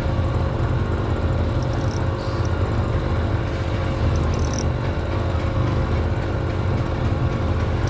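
A motor running steadily with a low hum, with two brief faint high rattles about two and four seconds in.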